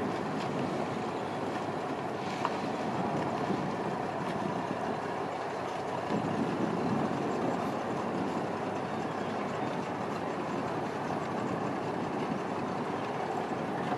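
Steady rumble and rush of a boat moving on the water, with wind on the microphone.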